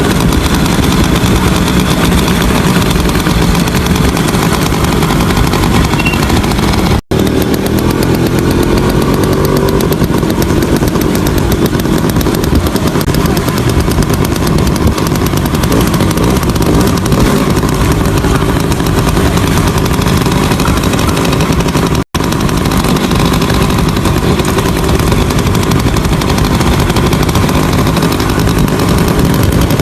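Small underbone motorcycle engine and exhaust running loud under way, a dense rapid firing rhythm, with a brief rise in pitch about a quarter of the way in. The sound cuts out for an instant twice, about a quarter and three quarters of the way through.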